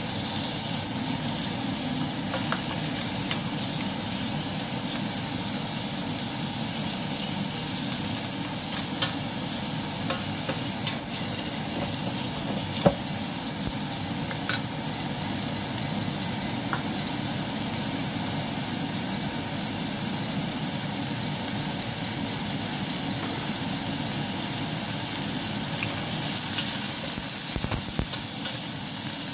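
Chicken fillet strips and chopped garlic sizzling steadily in oil in a nonstick frying pan while a wooden spatula stirs and turns them, with a few light scrapes and taps. A single sharp click stands out a little before halfway.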